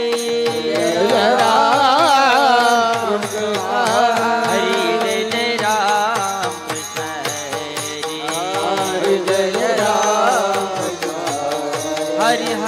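Marathi devotional kirtan singing: a singer's ornamented, wavering melodic line over steady held accompanying notes and an even drum beat.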